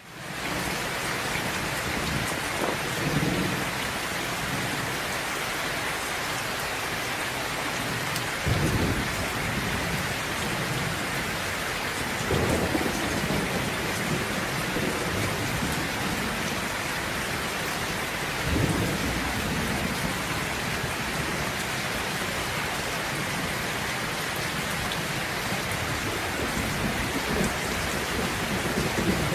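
Steady rain hissing, with low thunder rumbling five times, once every few seconds. The sound fades in at the start.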